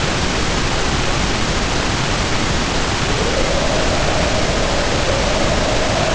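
Heavy rain and storm wind making a steady, dense hiss, with a faint howl of wind that sinks in pitch at first, then rises again about three seconds in and holds.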